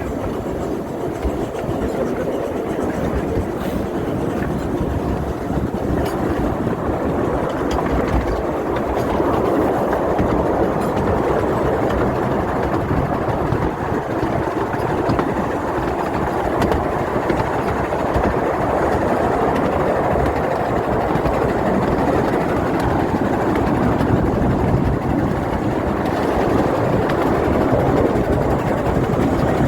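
Light railway locomotive No. 4 Norfolk Pioneer running with its train, a steady loud rumble of the moving train that grows a little louder about eight seconds in.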